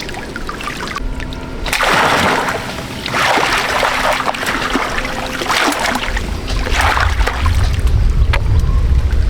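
Water splashing in several swells, the loudest about two seconds in and again around four seconds, over a faint steady hum, with a low rumble like wind on the microphone in the last few seconds.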